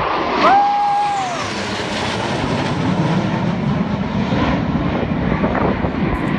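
Display aircraft engines at an airshow, a loud, steady rushing noise as the planes fly past. A short high-pitched tone sounds over it about half a second in.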